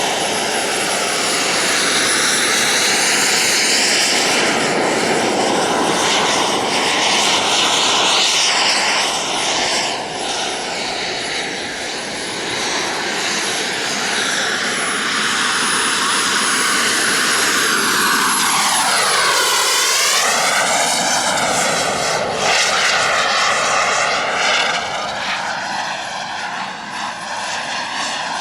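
Turbine engine of a radio-controlled model jet in flight: a steady jet rush with a thin high-pitched whine. About two-thirds through, the plane makes a close pass and the sound sweeps down and back up with a swooshing, phasing quality.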